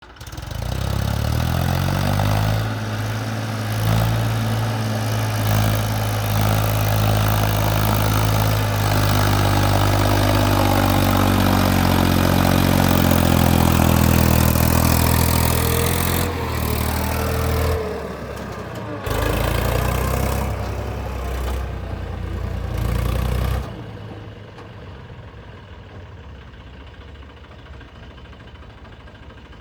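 Eicher tractor's diesel engine running loud and being revved, its pitch rising and falling, then dropping away sharply a few seconds before the end to a much quieter background.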